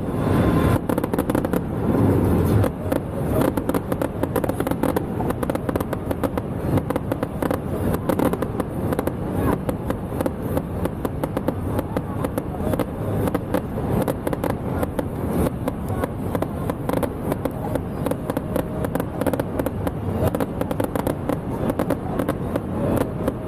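Fireworks and firecrackers going off in a dense, continuous crackle of rapid bangs with no pause.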